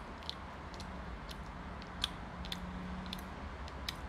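A person chewing a mouthful of sticky natto (fermented soybeans), with about nine soft, wet mouth clicks at irregular intervals.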